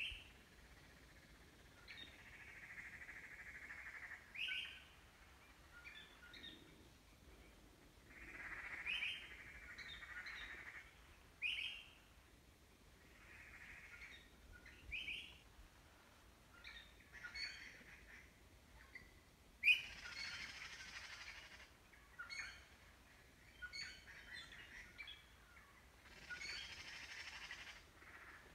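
Birds calling repeatedly outdoors: short rising chirps and longer buzzy phrases every few seconds, with one sharp, louder note about twenty seconds in.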